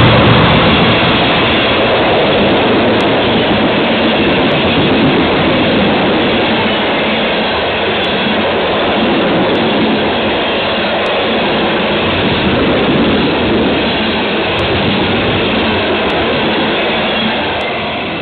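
Train rolling past the trackside camera: a loud, steady rush of wheels and cars on the rails that fades slowly near the end.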